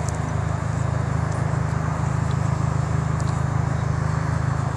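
A car engine idling, low and steady.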